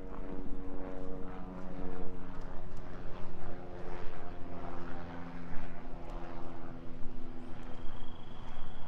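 A steady engine drone with several pitched tones that slowly shift in pitch, under irregular light steps on a path. A thin high steady whistle comes in near the end.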